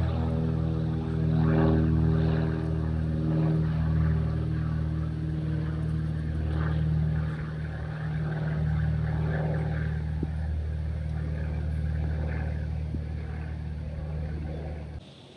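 Steady low engine drone of an aircraft, with a rushing hiss that swells and fades, cutting off suddenly near the end.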